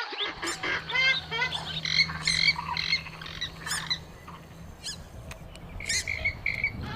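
Purple swamphen (mandar biru) calling: a run of short calls that rise and fall, dense at first, thinning out about four seconds in and picking up again near the end. A faint steady hum runs underneath.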